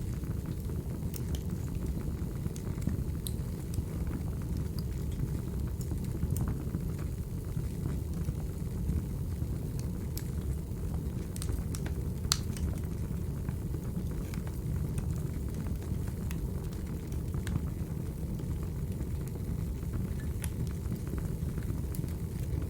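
Recorded wood fire burning: a steady low rumble with scattered sharp crackles and pops, one louder pop about halfway through.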